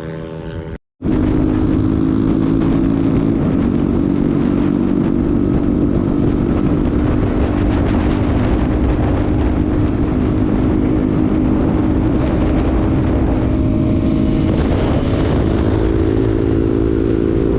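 A vehicle engine running at a steady speed, with road and wind noise; the engine note steps up slightly near the end.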